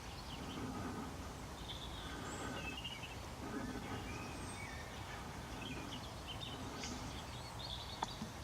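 Outdoor ambience of small birds chirping and calling faintly over a steady low rumble, with a couple of sharp clicks near the end.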